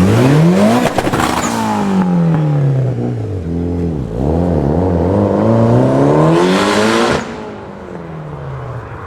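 Tuned car engine revving: a sharp rise in the first second, falling back, a few quick blips, then a long climb that drops off abruptly just after seven seconds, leaving it running more quietly.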